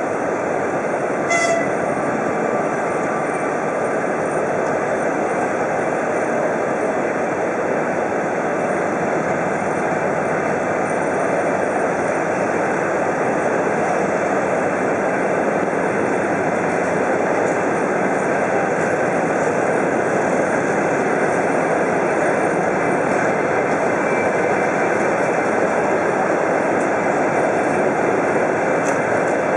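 Steady running noise of a passenger train rolling slowly through a station, heard from inside a coach, growing slightly louder. There is one short, sharp squeak about a second and a half in.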